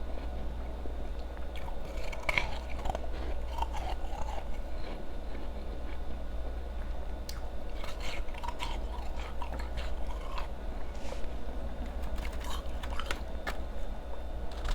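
Close-up chewing and crunching of ice: powdery refrozen ice cubes crackling between the teeth in irregular bites.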